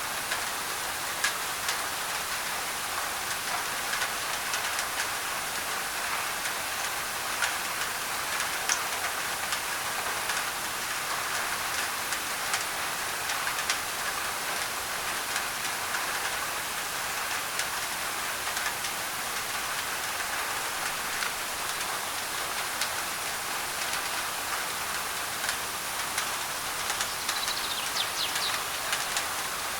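Steady rain on a thin tin roof: an even hiss peppered with sharp ticks of individual drops, layered with added white noise.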